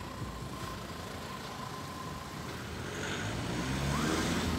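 A road vehicle's engine running, its low hum growing louder about three seconds in as it comes closer.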